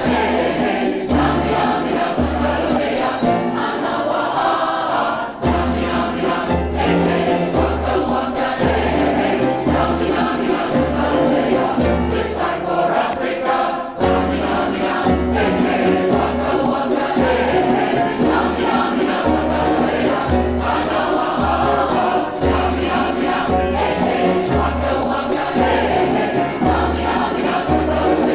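A choir singing an African song, with a steady low drum beat a little more than once a second and quick, dense percussion clicks on top.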